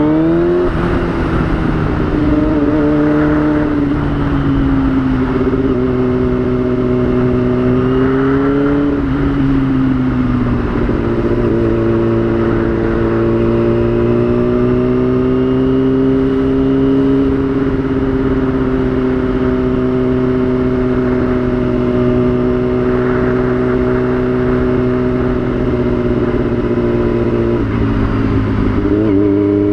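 Yamaha YZF-R6 (2003, RJ05) 600 cc inline-four engine under way. The engine climbs in revs into a gear change about a second in, then holds a long steady cruise with small rises and falls. Near the end the revs drop and then pick up again.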